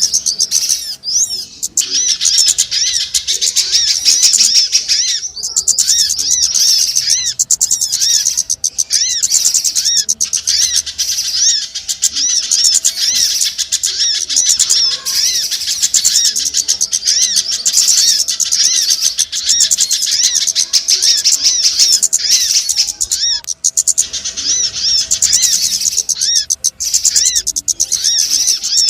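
Dense, unbroken twittering of many small birds, rapid high chirps overlapping one another: a bird-lure ('pikat') recording made to call in small birds.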